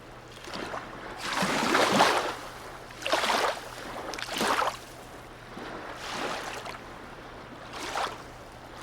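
Harbour water lapping and splashing in irregular surges, about five in all, the biggest about two seconds in, over a faint steady low hum.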